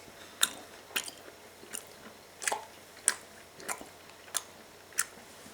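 A person chewing a very large wad of bubble gum with a mouthful of saliva: short wet smacks about every two-thirds of a second, eight in all. The gum is still being worked to knead it together.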